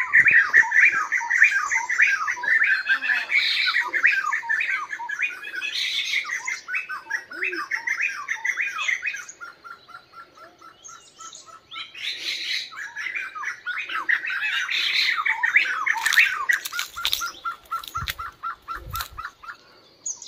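Birds squawking and chattering in quick, harsh calls, with a quieter run of rapid, evenly spaced notes about halfway through before the chatter starts up again.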